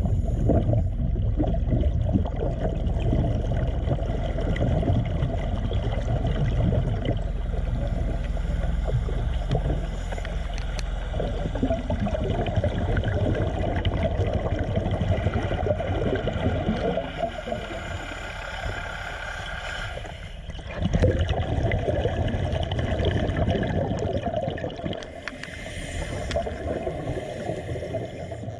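Churning, gurgling water noise with a steady mechanical hum beneath it. The water noise drops away briefly about twenty seconds in, then returns.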